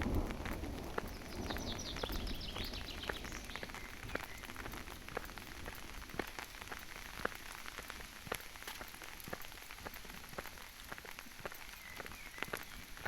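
Rain falling in woodland, a steady hiss with many separate drops tapping on leaves and the ground. The tail of a low thunder rumble fades out in the first second or so, and the rain eases slightly over the following seconds.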